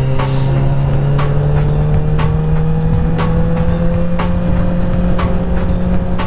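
2021 Honda CBR1000RR's inline-four engine running steadily, its pitch rising slowly over the first few seconds, under background music with a regular beat.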